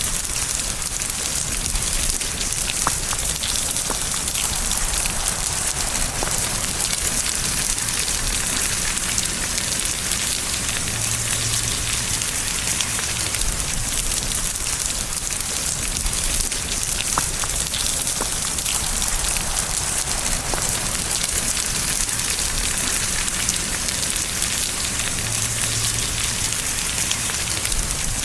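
Steady rain falling, a constant even hiss of drops with a few separate drop ticks standing out.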